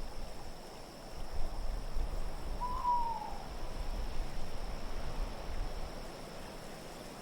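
An owl hoots once, a single call that slides slightly down in pitch, over a steady low rumble of wind.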